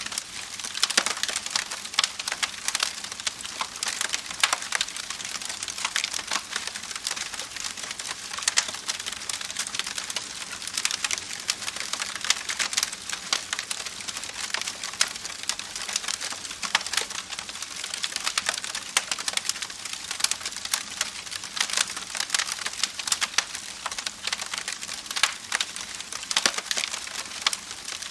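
Campfire crackling, with many irregular pops and snaps of burning wood over a steady rushing hiss of a babbling creek.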